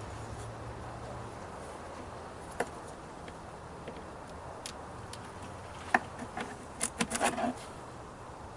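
Honeybees buzzing steadily in an opened top bar hive, with sharp wooden clicks and knocks from the hive bars and combs being handled, loudest in a quick cluster a little past the middle.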